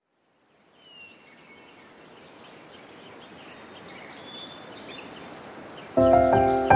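Birds chirping, short high calls over a soft steady hiss that fades in at the start. Loud music with held notes comes in about six seconds in.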